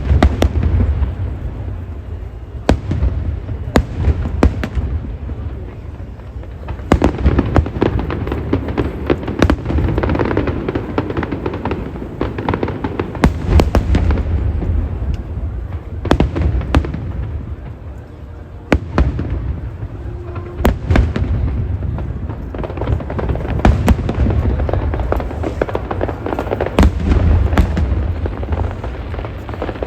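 Aerial fireworks bursting in quick succession: many sharp bangs over a continuous low rumble and crackle.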